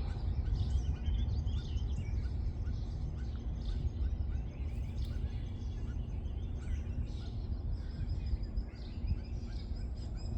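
Several songbirds chirping and singing in quick, overlapping calls, over a steady low rumble.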